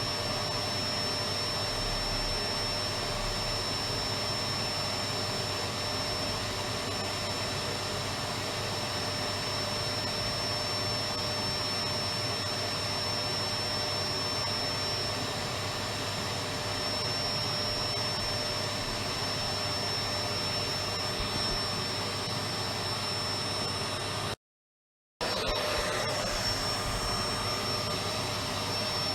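Electric vacuum cleaner running steadily: an even rushing of air with a constant high whine from the motor. About 24 seconds in it cuts to total silence for under a second, then resumes as before.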